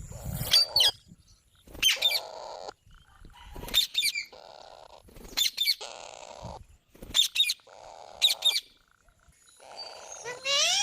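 Green parrot calling: a series of short, high-pitched screeches, some in quick pairs, about one every second or two.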